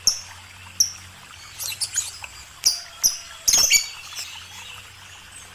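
A small bird chirping: short, high calls at irregular intervals, with a quick run of notes about halfway through.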